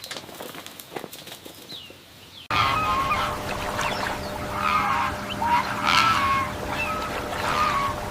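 Faint scattered clicks, then an abrupt cut about two and a half seconds in to domestic fowl calling: many short, repeated calls that bend in pitch, over a steady low hum.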